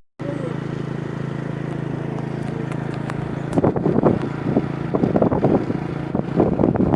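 Motorcycle engine running at a steady pace on the move, with irregular thumps and rattles starting about halfway through.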